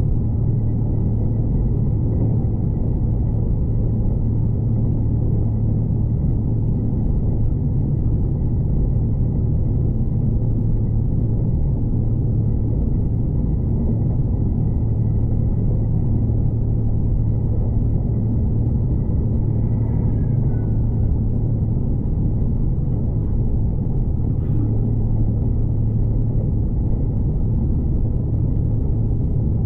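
Steady low rumble of a V/Line passenger train running along the line, heard from inside the carriage, with a constant low hum under it.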